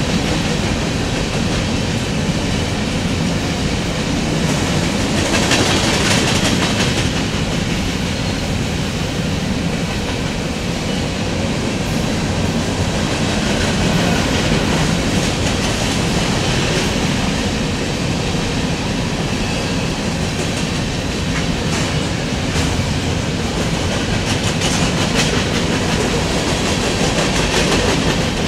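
Empty covered hopper cars of a BNSF grain train rolling past: a steady rumble of steel wheels on rail, broken by repeated clicks and clanks as the wheels cross rail joints.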